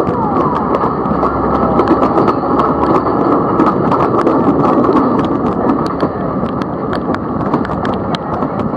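Sri Lanka Railways passenger train running, heard through an open carriage window: a steady rumble and rattle of the coaches with frequent sharp clicks and clacks from the wheels and couplings.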